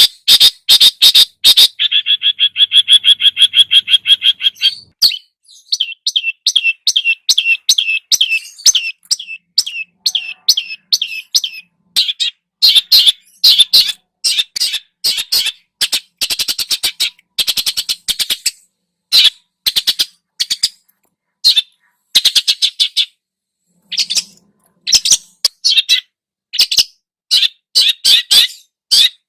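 Songbird song made of loud, rapid, sharp chattering notes, with a long fast trill about two seconds in. This is the harsh chattering (besetan) and varied fill-in phrases used in Indonesian bird-training recordings of the cucak jenggot and cendet.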